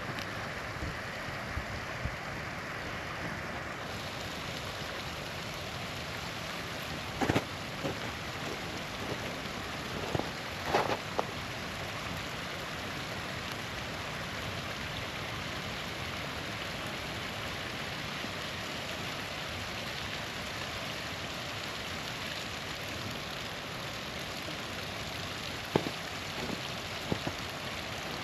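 Small waterfall rushing steadily. A campfire's sharp pops and crackles break through it now and then: one about seven seconds in, a cluster around ten seconds, and a few more near the end.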